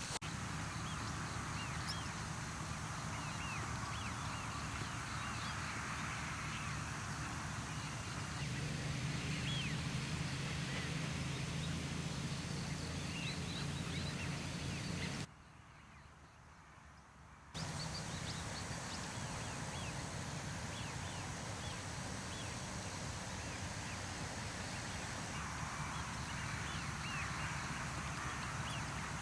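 Outdoor ambience: a steady background hiss with a low hum under it and many short, scattered chirps. About halfway through, the sound drops to near silence for roughly two seconds and then returns.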